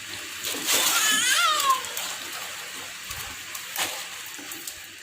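Steady hiss of rain and running water. About a second in, a high, wavering cry rises and falls away, and near four seconds there is one sharp crackle.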